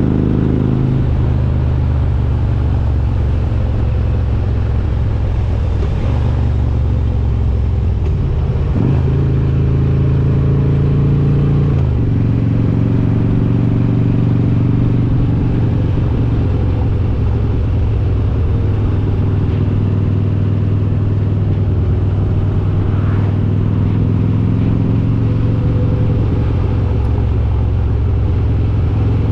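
Harley-Davidson Road King's S&S 95-cubic-inch V-twin with Super Stock heads running under way at a steady level. Its pitch steps down and up several times as the throttle and gears change.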